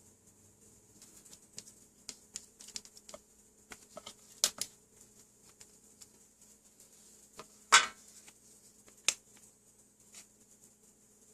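Small hard objects being handled on a workbench: a run of light clicks and taps, a louder clack with a short ring about three quarters of the way through, and one more sharp tap soon after, over a faint steady hum.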